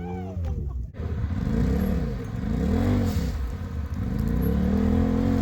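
Side-by-side engine revving, its pitch rising and falling several times over a steady low engine drone. About a second in there is a brief break in the sound.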